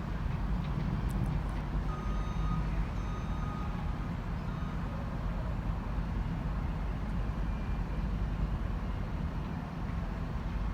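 Railway station ambience: a steady low rumble of engines and machinery, with a faint high beeping tone about two seconds in.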